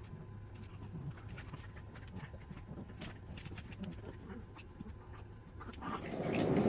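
Dogs moving about indoors: faint, scattered light clicks and scuffles over a low steady hum. A broad hiss rises near the end.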